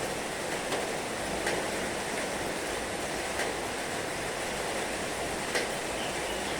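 Heavy rain falling steadily, a dense even hiss, with a few louder single ticks of drops striking now and then.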